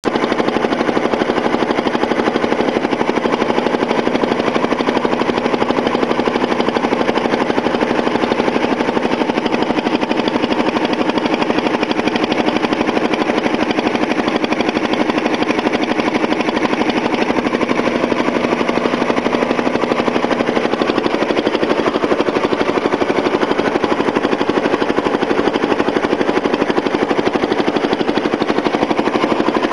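A small engine running steadily, with a fast, even pulsing throughout.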